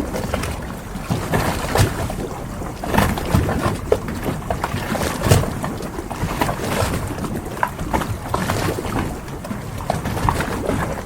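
Harbour ambience: water lapping against moored boats, with frequent irregular knocks and creaks over a steady rush of wind and water.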